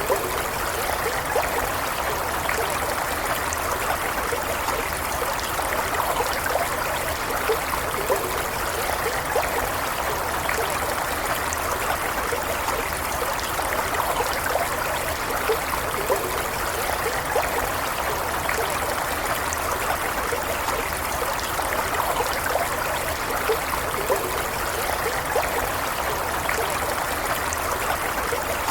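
Shallow stream running steadily, water trickling and gurgling over stones.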